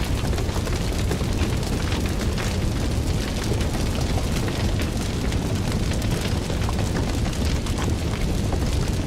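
Fire burning with a steady low roar and many small crackles and pops scattered throughout.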